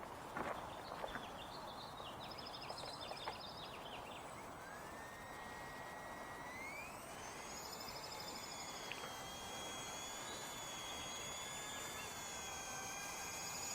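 Blade MSR-X micro RC helicopter's electric motor spooling up. After a few light clicks and knocks, a thin whine starts about a third of the way in, climbs in two steps and then holds steady at a high pitch.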